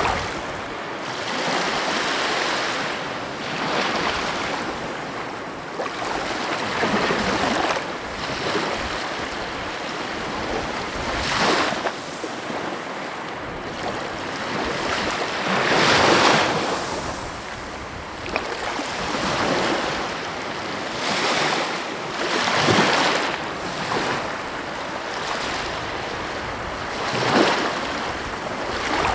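Sea waves breaking and washing on the shore in a steady rhythm, one swell every few seconds. The loudest breaks come about halfway through and near the end.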